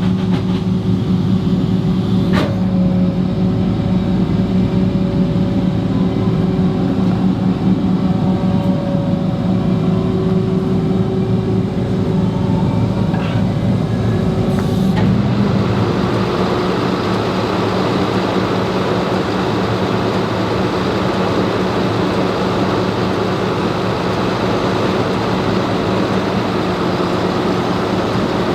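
Flatbed tow truck's engine running steadily, with a single sharp click a couple of seconds in; the engine's note changes about halfway through.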